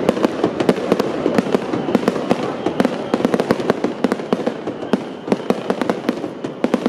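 Aerial fireworks bursting and crackling: a fast, dense run of sharp cracks and pops, several a second, over a continuous rush of noise.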